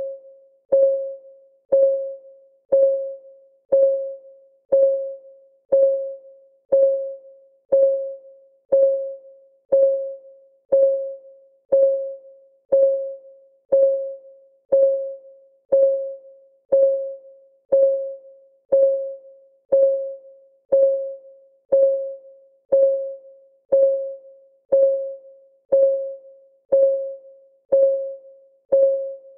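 Countdown timer's clock-ticking sound effect: one tick about every second, steady and even, each a short knock with a brief ringing tone that fades before the next.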